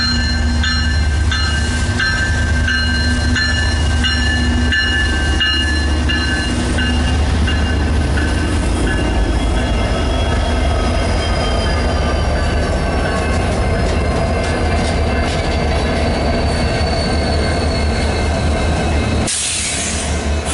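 Union Pacific diesel freight locomotives passing close by, their engines rumbling steadily and their wheels squealing on the rail in slowly gliding tones. A bell rings at an even beat, about twice a second, for the first several seconds, then stops. A short hissing burst comes near the end.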